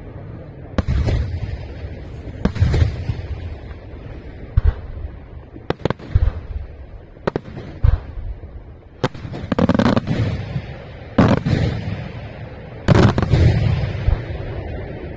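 Aerial fireworks shells bursting one after another: about a dozen sharp booms, each trailing off in a low rumble, coming closer together in the second half.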